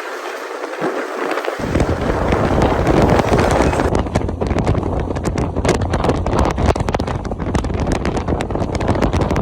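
Wind buffeting the microphone of a moving motorcycle, over a steady low rumble of road and engine noise. The rumble comes in about a second and a half in, and from about four seconds the wind turns into a rapid, gusty crackle.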